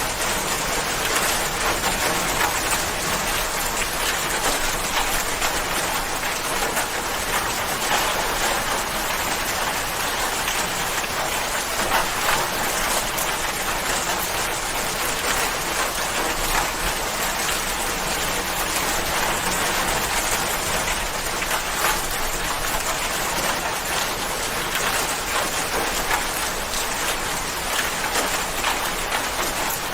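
Steady rain falling on a surface, a dense even hiss of many drops with no break.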